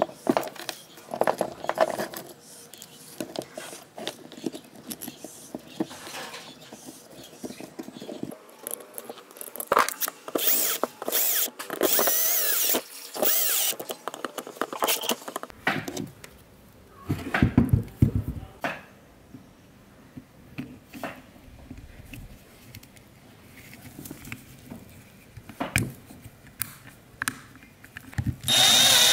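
Workshop work on an old metal fan: scattered clicks and knocks of parts and tools being handled, with loud bursts of a small power tool between about ten and fifteen seconds in and again at the very end, the last with a high whine.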